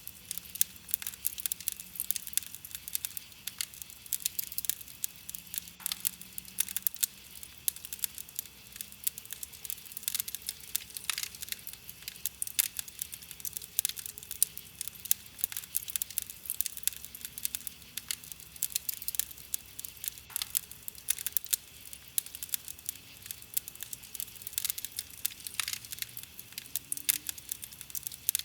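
Wood fire crackling with many quick, irregular pops and snaps, some louder than the rest.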